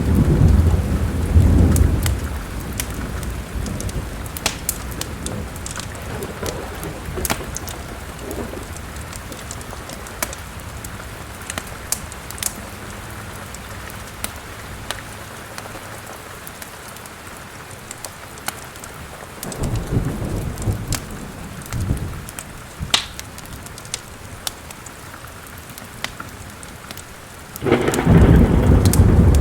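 Steady rain with rolling thunder: a rumble at the start, another about two-thirds of the way through, and a loud one near the end. Over it, a wood fire crackles with sharp snaps throughout.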